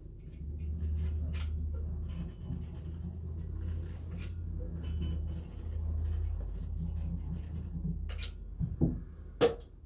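A low steady hum with a couple of sharp knocks near the end.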